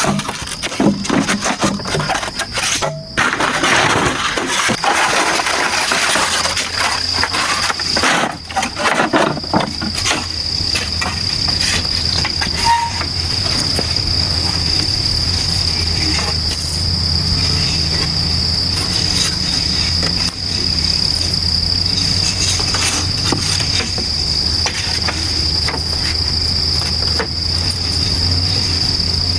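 Rainforest insects calling in a steady, high-pitched drone, with scattered knocks and rustling during the first ten seconds.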